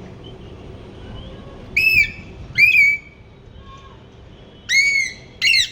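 Pet parrot giving four short, loud, whistle-like calls in two pairs, each call arching up and down in pitch.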